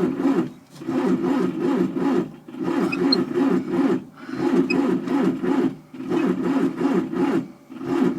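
Starter motor slowly cranking the cold diesel engine of a Fiat 780 DT tractor without it firing, labouring and swelling and dipping about every one and a half seconds: the battery has too little power to spin it fast.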